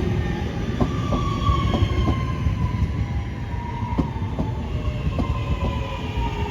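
Class 323 electric multiple unit running through the station, its traction whine slowly falling in pitch as the train slows, with scattered clicks of the wheels over rail joints.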